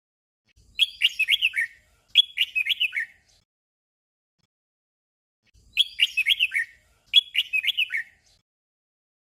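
Red-whiskered bulbul song in the 'double' style: a short warbled phrase sung twice back to back, with the pair repeated about five seconds later.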